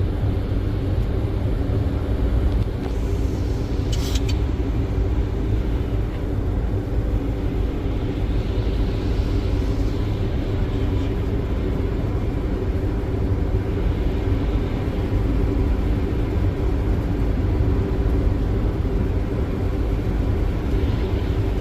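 Boeing 737 flight deck noise on final approach: a steady rumble of airflow and engines with a constant low hum. A brief high-pitched tick about four seconds in.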